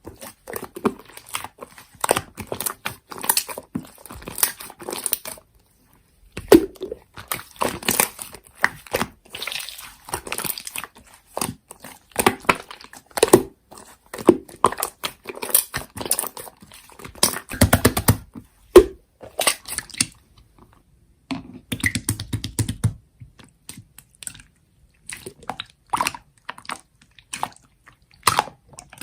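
Slime being pressed and squeezed by hand, making quick irregular crackling clicks and pops with a couple of brief pauses.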